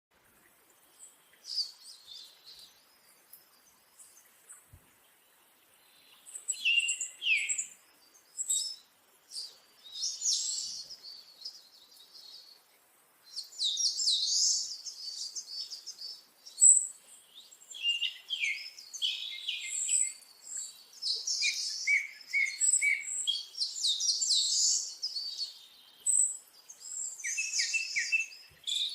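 Birds singing and chirping: many quick, high calls and trills, sometimes overlapping, sparse at first and much busier from about halfway.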